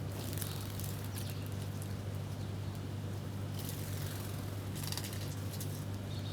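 Small birds chirping and twittering in short, high, rapid clusters while feeding, over a steady low hum.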